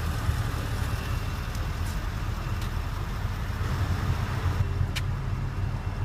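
Low, steady rumble of the Porsche Cayenne GTS's 4.8-litre V8 idling, with one faint click about five seconds in.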